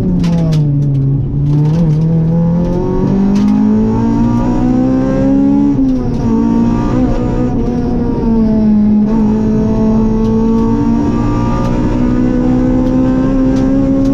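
Rally car engine heard from inside the cabin at full stage pace. Its pitch falls for about the first second under braking, then climbs through the gears, with short drops at each upshift around the middle, and holds fairly steady revs near the end.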